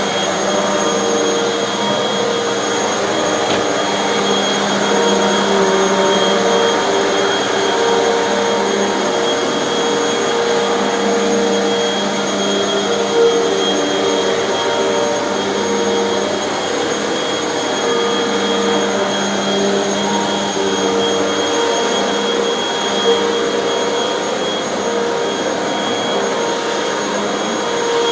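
Hoover upright vacuum cleaner running continuously on carpet, a steady motor whine whose tone wavers slightly as it is pushed back and forth.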